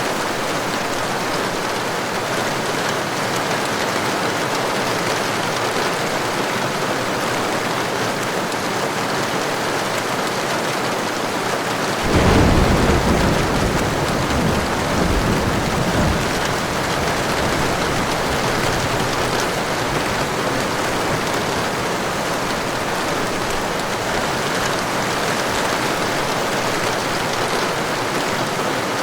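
Heavy rain falling steadily. About twelve seconds in, a clap of thunder breaks in with a low rumble that swells again a few seconds later and then fades.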